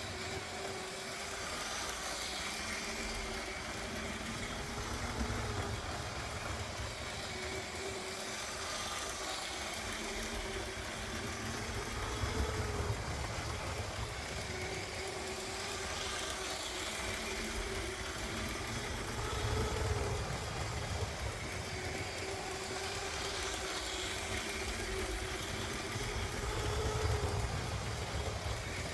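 LEGO 9V electric train running slowly on plastic track: the small motor's steady hum over a low rumble of wheels and track that swells louder every few seconds as the train comes round.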